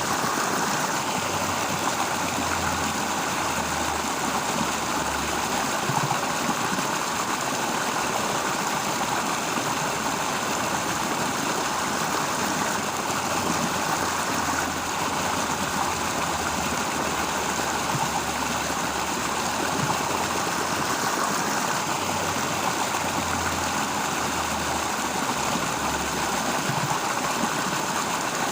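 Steady rural nature ambience: a continuous, even rushing noise that does not change, with a faint, uneven low rumble underneath.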